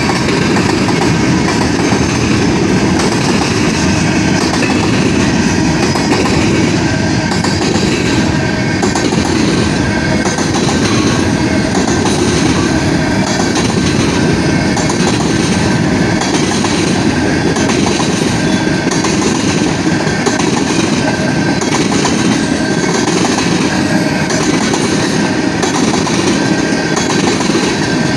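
Freight train's covered hopper and tank cars rolling past close by: a loud, steady rumble of steel wheels on the rails.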